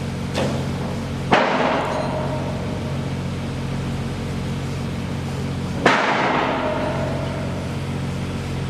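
Bridge construction work: a machine engine runs with a steady hum while heavy impacts strike three times, a small one soon after the start, a loud one about a second and a half in and another about six seconds in, each ringing on for about a second.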